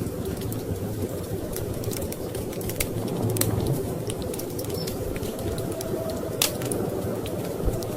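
Wood fire crackling with scattered sharp pops, over a steady low rumble of storm wind.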